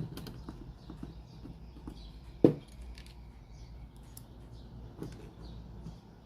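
Scattered light clicks and taps of handling, with one sharp knock about two and a half seconds in, over a low steady hum.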